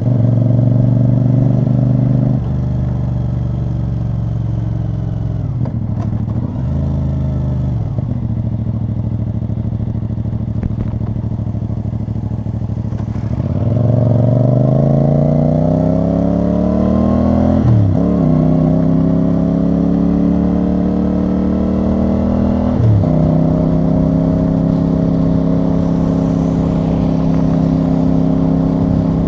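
CFMoto CL-C 450 motorcycle's parallel-twin engine and exhaust under way. It runs steadily with several short breaks for gear changes, then pulls hard about halfway through with a rising engine note, shifting up twice before holding a steady cruise.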